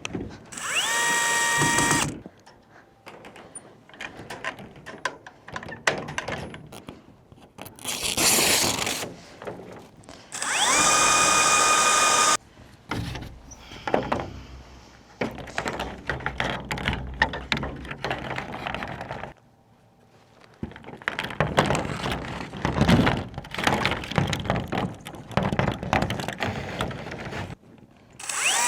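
Power drill run in two short bursts, its motor whine rising and then holding, working screws or holes through corrugated PVC panels into the coop frame. Between the bursts come clicks, knocks and rattles of the panels and tools being handled, and a louder scraping rush about eight seconds in.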